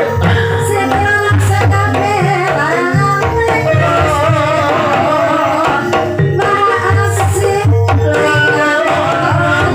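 Javanese gamelan music for an ebeg hobby-horse dance: kendang hand drums beating a steady pattern, with singing over the ensemble.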